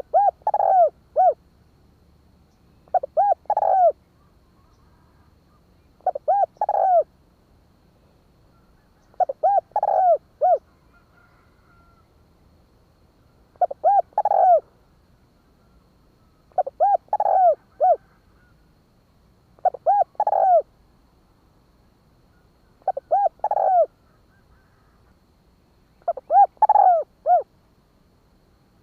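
Spotted dove cooing: nine phrases, each of three or four short coos, repeated about every three seconds.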